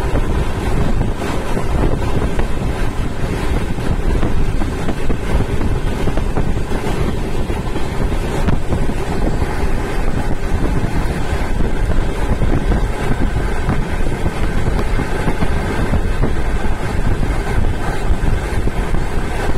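Howrah Duronto Express train running at full speed, heard from on board: a steady rumble of wheels on the rails mixed with wind rushing past and buffeting the microphone.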